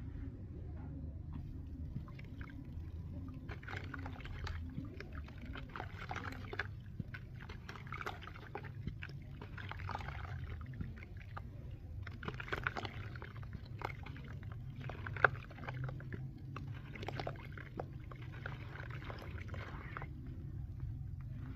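Gritty cement being crushed and crumbled, with irregular bursts of crackling crunches and trickling grit over a steady low hum.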